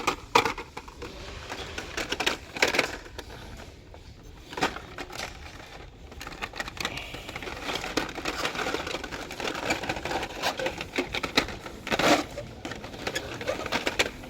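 Irregular handling noise: scattered clicks, knocks and rustles over a steady background hum, with louder knocks about two and a half seconds in and again near the end.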